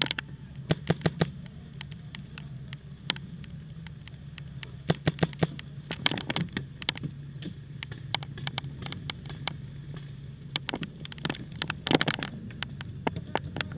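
Paintball markers firing: sharp pops in quick bursts of several shots and in single shots, over a steady low hum.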